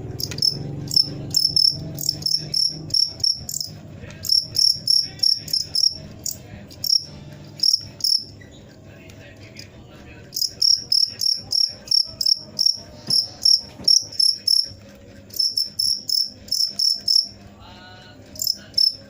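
Cricket chirping close up: loud, sharp, high chirps in quick runs. The runs come in several bouts broken by short pauses, over a faint low hum.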